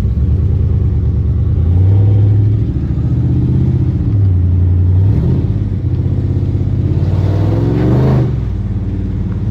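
Car engine running and pulling away, its pitch rising and falling with the throttle, with a sharp rev about eight seconds in.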